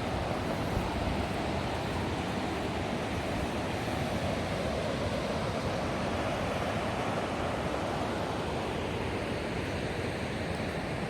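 River water rushing steadily over rapids, an even hiss with no breaks.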